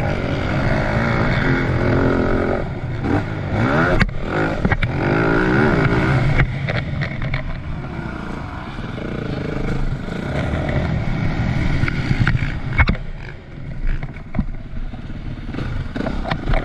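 2010 Yamaha YZ450F's single-cylinder four-stroke engine revving up and down as the motocross bike is ridden round the track, with scattered sharp knocks and clatter.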